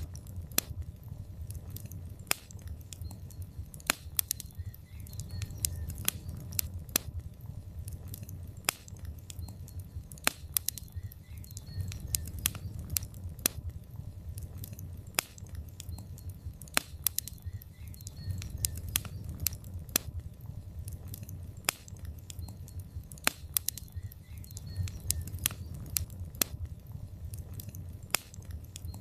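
Burning logs in a fireplace crackling: many irregular sharp pops and snaps over a low, steady rumble of the fire.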